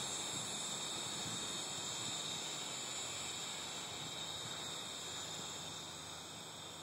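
A steady, high-pitched droning hiss that slowly fades, the unexplained sound the listener places up in the sky.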